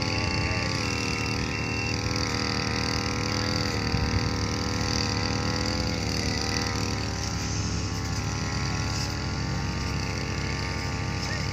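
Large diesel engine running steadily at a constant speed, its pitch wavering slightly.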